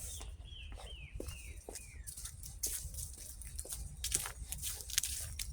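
A bird calling a quick series of about five short notes, each sliding down in pitch, over the first two seconds, with scattered clicks and a steady low rumble underneath.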